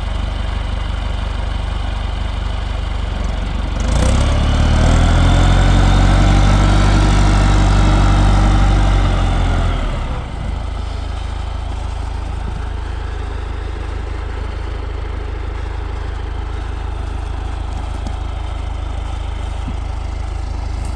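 80hp International tractor engine idling, revved up about four seconds in and held for some six seconds, then dropping back to idle.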